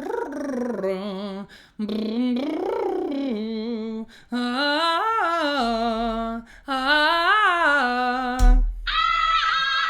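A woman humming vocal-warm-up sirens: four smooth glides that each rise and fall in pitch, with short breaths between them. Near the end comes a brief low thump, then a much higher held note.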